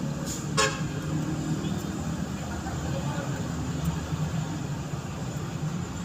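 A vehicle horn gives one short toot about half a second in, over a steady low hum.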